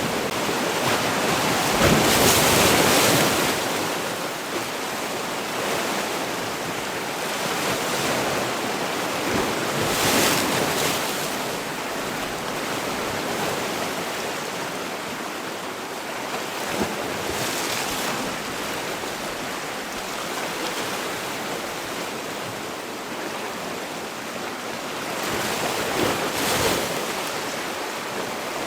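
Sea waves breaking and washing in a steady surf, each wave swelling up about every eight seconds, the first the loudest.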